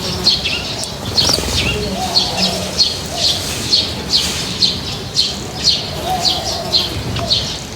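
Small birds chirping in a steady run of short, high, downward-sweeping notes, about two a second, with a few lower calls mixed in.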